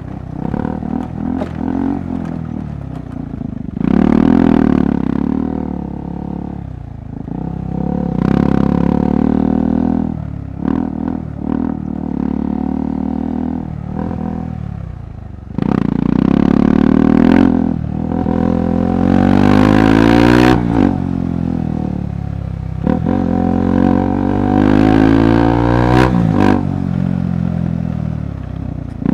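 KTM 390 Adventure Rally's single-cylinder engine ridden over a rough trail, its note rising and falling in repeated bursts of throttle every few seconds, with clattering knocks from the bike over the ground.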